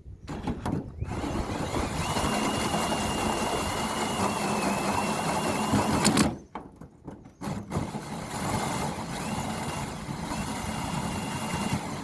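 Cordless drill cutting through metal: two long runs with a steady whine over grinding noise, stopping briefly about six seconds in before starting again.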